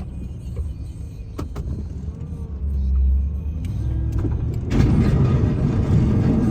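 Snow plow's engine running with a steady low rumble and a few light clicks; about five seconds in it turns suddenly louder and rougher.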